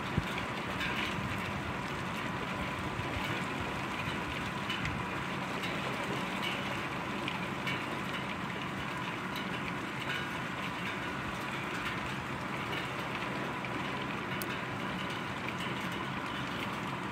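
Heavy rain pouring steadily: an even hiss with a few scattered sharp ticks.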